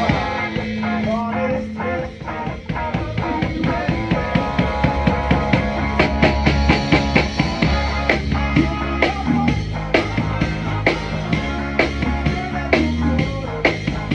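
Live rock band playing: a drum kit keeps a steady beat of hits under held low notes and other pitched instruments.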